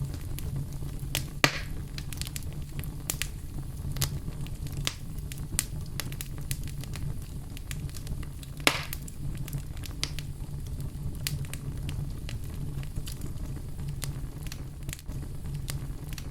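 Fire burning in a fireplace, crackling with many sharp pops over a steady low rumble of the flames. Two louder pops come about a second and a half in and a little past the middle.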